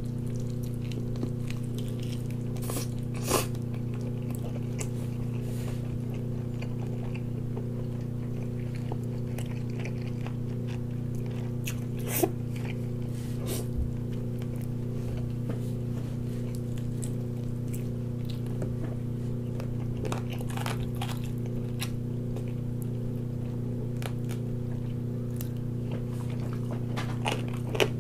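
Biting and chewing into a roasted chicken leg with crisp skin, with a few sharper crunches or smacks about 3 s in, about 12 s in and near the end. A steady low electrical hum runs underneath throughout.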